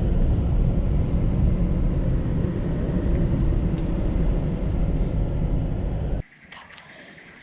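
Quad bike riding over sand dunes: a loud, steady rumble of engine and wind buffeting the microphone, which cuts off suddenly about six seconds in.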